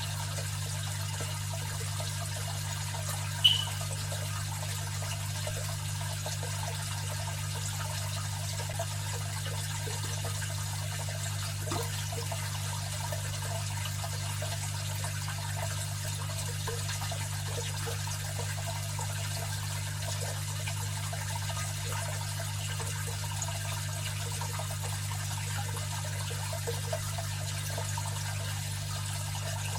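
Aquarium filter running: water trickling and splashing over a steady low motor hum. A single brief sharp plink stands out about three and a half seconds in.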